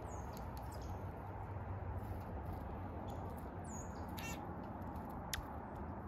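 Wild birds calling: a few brief, high chirps and glides, over a steady background rumble and hiss, with one sharp tick about five seconds in.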